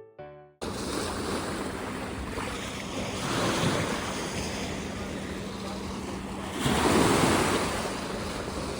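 Wind rushing over the microphone beside the water, swelling louder twice, over a steady low hum.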